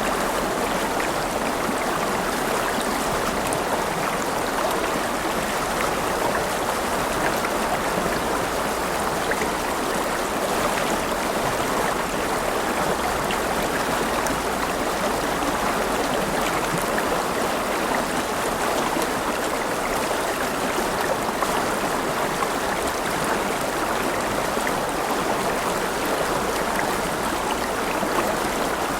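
River water flowing and splashing: a steady rushing stream with small gurgles and splashes, even throughout.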